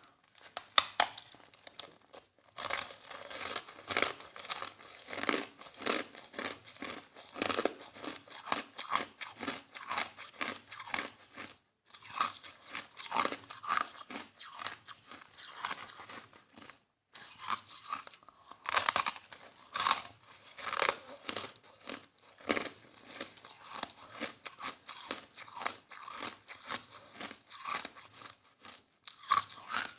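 Close-up chewing of soft crushed ice: dense, irregular crunching bites in runs of several seconds, with short pauses between mouthfuls.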